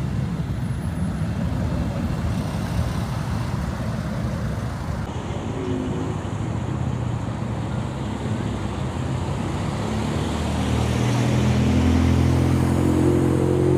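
Cars moving slowly in traffic, engines running under a steady rumble. About ten seconds in, a nearby car's engine grows louder and holds a steady pitch.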